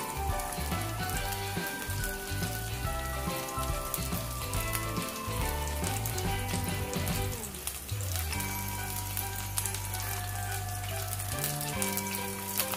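Battered tempura vegetables deep-frying in hot oil in a wok, a steady crackling sizzle. Background music with sustained notes plays under it.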